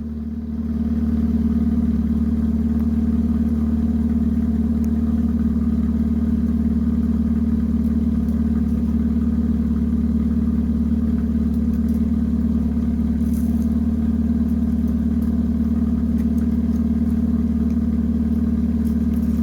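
Engine idling steadily at one constant speed, a low even hum that starts and stops abruptly.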